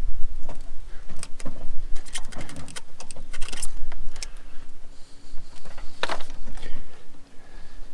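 Irregular sharp metallic clinks and rattles, as of metal tools or parts being handled and set down.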